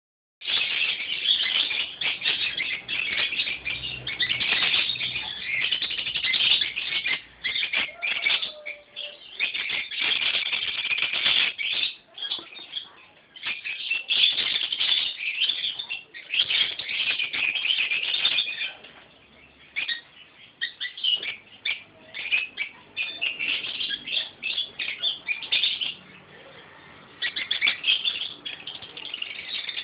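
Sun conure chirping and chattering in rapid bursts of high, shrill notes, broken by short pauses.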